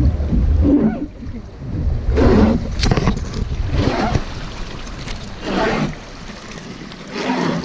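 Wooden river boat being rowed: wind buffets the microphone for about the first second, then a swishing stroke sound comes back about every second and a half, in the steady rhythm of oars pulling through the water.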